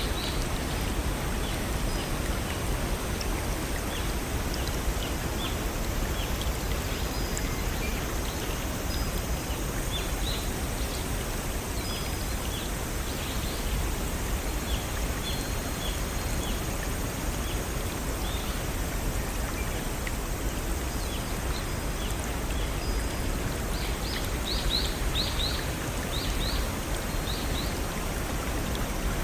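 A small waterfall or brook rushing steadily, with short bird chirps scattered throughout and a quick run of rising chirps near the end.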